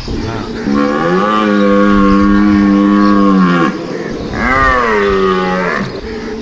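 A large animal calling twice: a long, drawn-out call of about three seconds, then a shorter second call.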